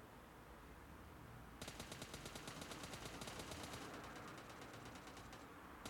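Faint rapid automatic gunfire, a fast even run of shots about eight a second, starting about one and a half seconds in and continuing.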